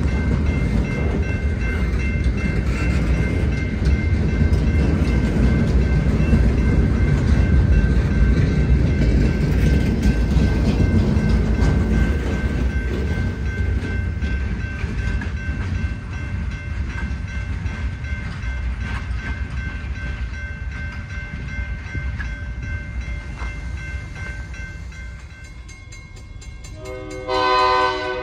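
Wisconsin & Southern freight train passing on the rails, a steady low rumble with a few thin high tones over it, fading over the last few seconds. Near the end comes a short locomotive horn blast, about a second long and the loudest sound here.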